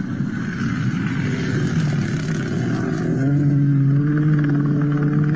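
Rally car engine at high revs, its pitch climbing and then holding a steady, loud note from about three seconds in.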